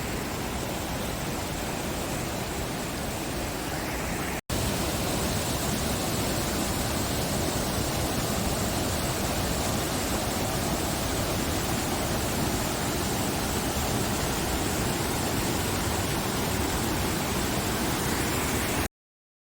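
Waterfall rushing steadily. About four seconds in there is a short break, and then it comes back louder; it cuts off suddenly near the end.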